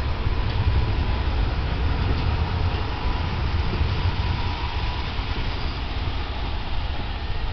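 Passenger coaches of a departing train rolling slowly past on the rails: a steady low rumble of wheels on track, with a faint thin wheel squeal in the middle.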